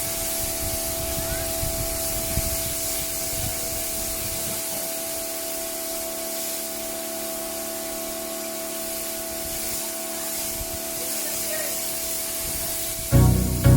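Pressure washer spraying water over a car for the final rinse: a steady hiss of spray with the washer's steady hum under it. Music with a strong beat cuts in near the end.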